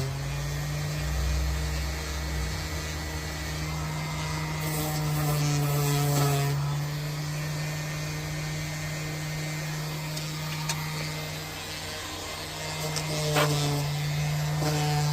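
A power tool running steadily with a constant hum, its pitch shifting slightly now and then as it is worked, with a sharp click about thirteen seconds in.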